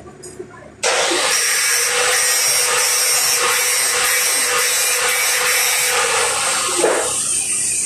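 Loud, steady, harsh hissing noise of metalworking power work, such as grinding or an electric welding arc, starting suddenly about a second in, with a faint steady hum underneath.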